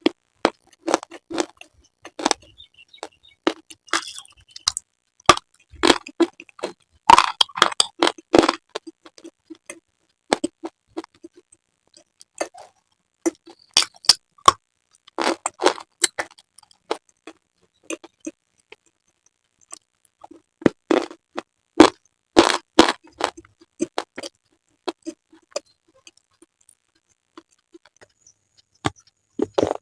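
Slate being bitten and chewed up close: clusters of sharp, brittle crunches and cracks, with short pauses between bites.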